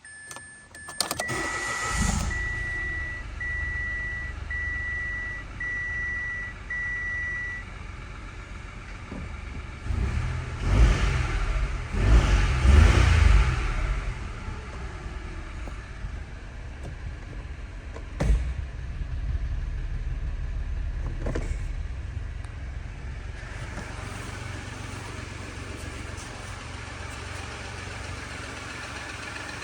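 2018 Mitsubishi Mirage's 1.2-litre three-cylinder engine starting about a second in, then idling, revved twice between about ten and fourteen seconds in before settling back to idle. A dashboard warning chime beeps evenly about seven times at the start, and there is a single sharp knock a few seconds after the revs.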